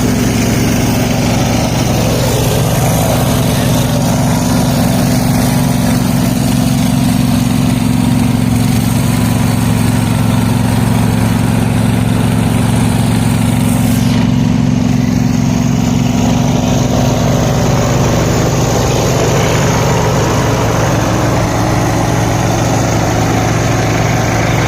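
Large garden tractor engine running steadily at a constant speed, a continuous low engine hum with no revving.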